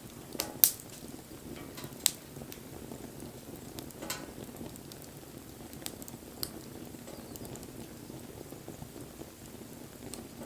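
Wood bonfire burning with a steady low hiss of flames and scattered sharp crackles and pops, the loudest about half a second in.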